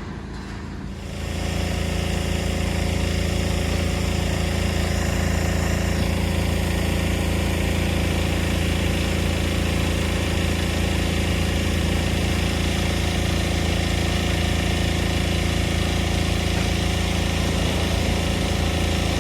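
Heavy diesel demolition machinery running steadily, its engine drone swelling about a second in and then holding level, with a steady hiss over it.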